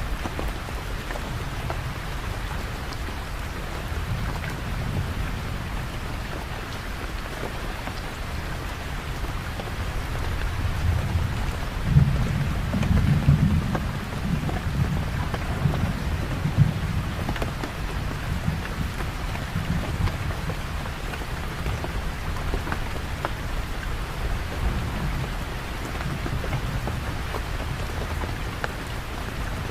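Steady rain falling, with a low roll of thunder that builds about ten seconds in, peaks a few seconds later and rumbles away.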